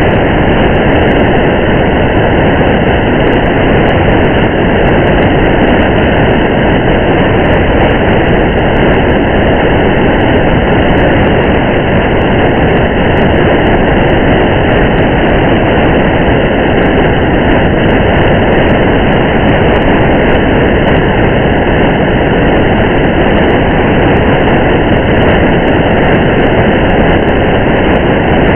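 Steady rain and road noise of a car driving on a highway in the rain: a dense, muffled wash with faint scattered ticks of drops.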